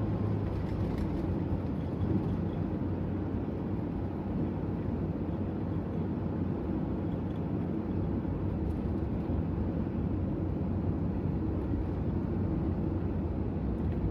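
Toyota HiAce van on the move, a steady low engine and road rumble with no clear change.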